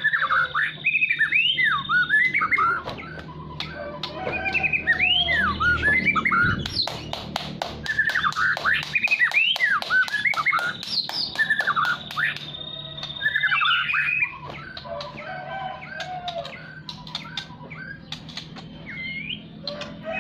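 White-rumped shama (murai batu) singing continuously: varied, rapid whistled phrases with long held high notes, and a quick run of clicking notes in the middle.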